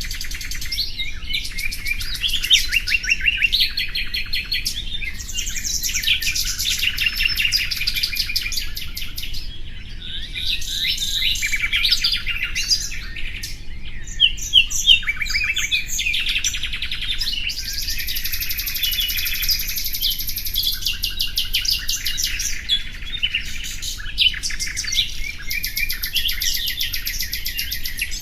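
Songbirds singing almost without a break: overlapping rapid chirps, trills and whistled phrases, with a thin, very high sustained note from about eighteen to twenty-one seconds in.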